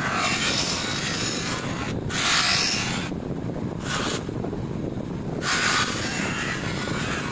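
Abrasive rubbing against the metal motorcycle footrest during sanding or polishing, a harsh scraping hiss over a steady low hum. The rubbing stops twice briefly about halfway through, then resumes.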